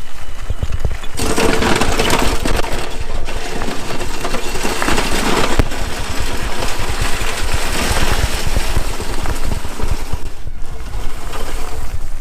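Power wheelchair with a front-mounted snow plow driving and pushing snow: a steady mechanical rumble and scraping that grows louder about a second in.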